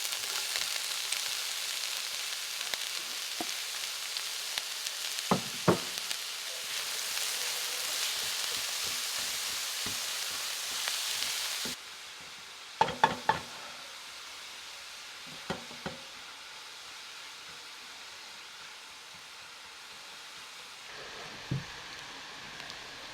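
Food frying in hot oil, a steady sizzle that drops to a quieter sizzle about halfway through. A few sharp knocks sound over it, the loudest a quick run of three.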